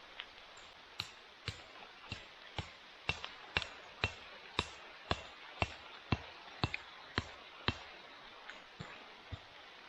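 Repeated sharp strikes of a metal tool on wood, about two a second, each with a short metallic ring, fading near the end, over a steady hiss of rain.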